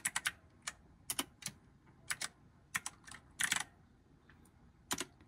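Typing on a computer keyboard: irregular keystrokes, single and in short quick runs with pauses between, as a name is typed in.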